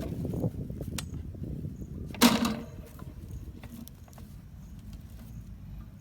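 Close rustling and scraping of something being handled, with one sharp knock about two seconds in.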